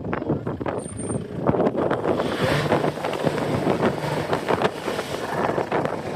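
Car engines running, with wind buffeting the microphone.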